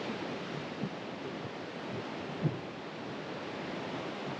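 Steady rushing noise of wind and ocean surf, with wind hitting the microphone in a couple of short low thumps, the stronger one about two and a half seconds in.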